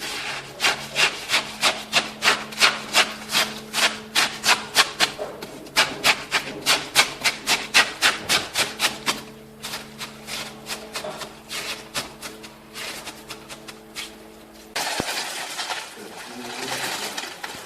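Rhythmic back-and-forth scraping strokes of a hand tool on a hard material, about two to three a second, growing weaker after about ten seconds. A steady hum runs under them and stops near the end, where a different steady noise takes over.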